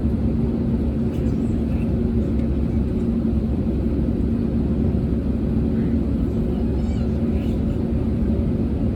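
Airbus A320neo's Pratt & Whitney PW1100G geared turbofans at idle, heard from inside the cabin as a steady low rumble with a constant hum, typical of taxiing or holding short of the runway.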